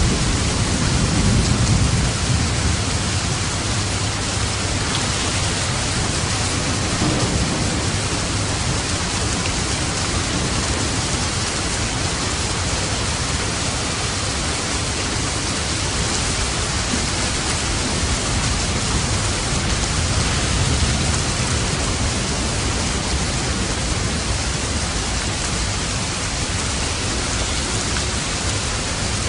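Steady rain hissing, with low swells of thunder rumbling about two seconds in and again about twenty seconds in.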